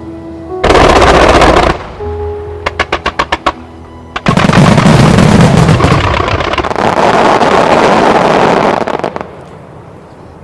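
Music-synchronised fireworks display: a loud burst of about a second, a rapid string of about eight sharp cracks, then a long, loud barrage of shells that cuts off near the end, with the show's music playing under it.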